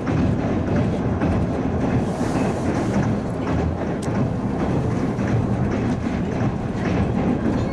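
Steady running noise heard inside a Toyama Chihou Railway 10030 series electric train (the former Keihan 3000 series) travelling at speed, mostly a low rumble of wheels on rail.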